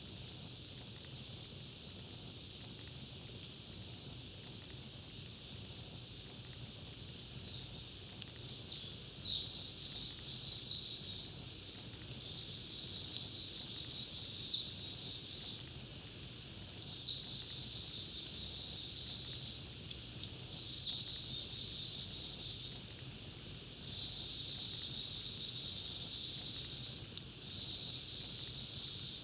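A songbird repeating a short phrase several times, each a sharp falling note followed by a rapid trill. It starts about a third of the way in, over the soft crackle of a campfire and a steady high hiss.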